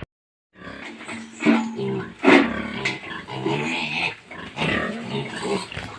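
Hampshire and Yorkshire pigs grunting and squealing, a dense run of overlapping calls that starts about half a second in.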